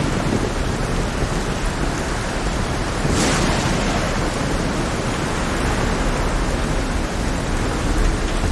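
Heavy rain over a rough sea: a dense, steady hiss with a low rumble underneath. About three seconds in, a louder rush swells and fades within about a second.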